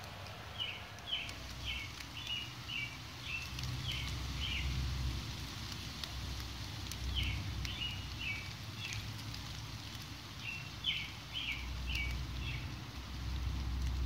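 A songbird singing three phrases, each a quick run of about six to eight repeated chirping notes, over a steady patter of light rain with scattered drop ticks and a low rumble underneath.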